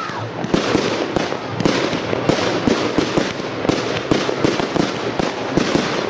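Aerial fireworks bursting close by: a rapid, unbroken run of bangs and crackling.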